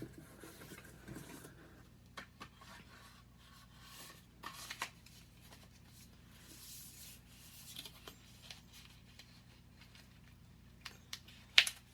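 Cardboard makeup packaging and an eyeshadow palette being handled: scattered soft rustles and light taps, with one sharp click near the end.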